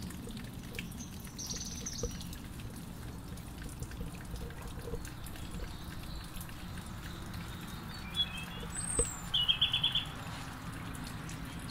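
Small songbirds calling: a few short high chirps, then a quick trill of rapid repeated notes about nine seconds in, over a steady low background rumble.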